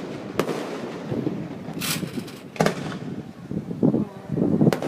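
Fireworks going off: three sharp bangs about two seconds apart, with a short hiss shortly before the second.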